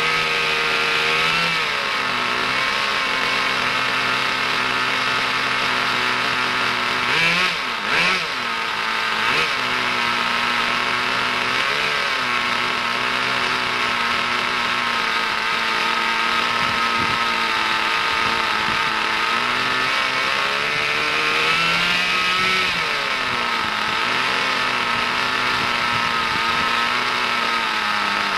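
Kyosho GS-11X glow-fuel nitro engine of a 1/10 RC car running steadily on its first run, brand new. It is given short blips of throttle, the pitch rising and falling back, about a quarter of the way in, near the middle and again later.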